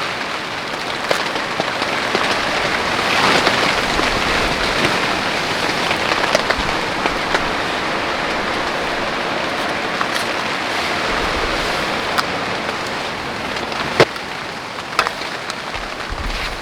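Heavy rain falling steadily, swelling a few seconds in, with scattered sharp drop impacts and one loud tap about 14 seconds in.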